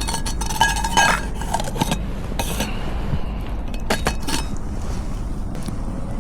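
Camp cookware and utensils clinking and knocking as they are handled. A few strikes carry a brief metallic ring, over a steady low rumble.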